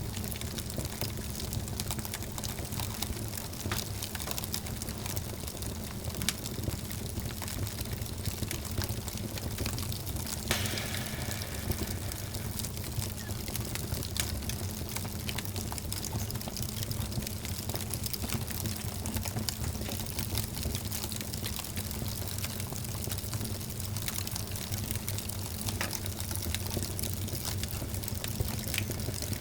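Log fire in a fireplace burning with a steady hiss and frequent small crackles and pops, one sharper pop about ten seconds in, over a low steady hum.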